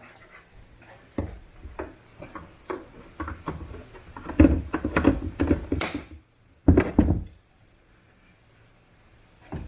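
A run of irregular knocks, clicks and clunks of hard parts being handled as a car tail light assembly is worked off, busiest in the middle with a short loud clatter near the end, then quiet.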